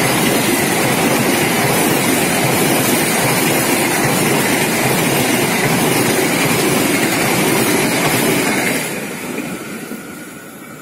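Passenger train coaches rolling past close by, a steady loud rush of wheels on rail that fades away from about nine seconds in as the last coach goes by.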